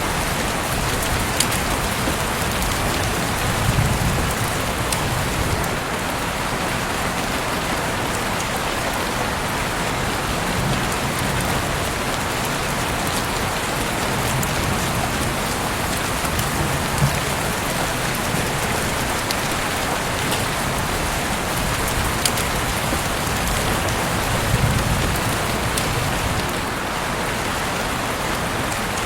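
Heavy rain pouring steadily outside an open window, a dense hiss with sharp drop taps here and there. Two brief low swells come about four seconds in and near the end.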